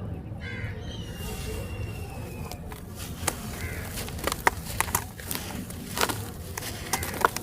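Dry, gritty red sand-clay being crumbled in the hands, with sharp irregular crunches and crackles coming thick and fast from about halfway through, over a steady low rumble.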